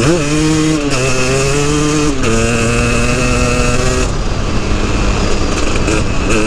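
KTM 300 EXC's two-stroke single-cylinder engine running while the bike is ridden: the revs rise sharply at the start, hold, and drop back about two seconds in.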